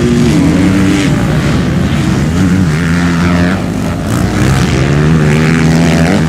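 Several motocross bike engines running hard together, their pitch dropping and climbing again and again as the riders work the throttle and shift.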